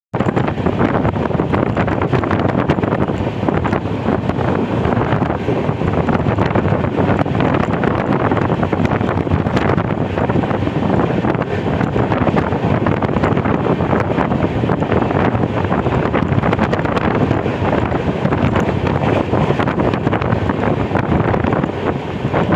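Wind buffeting the microphone over the steady running noise of a moving passenger train, heard from an open coach doorway.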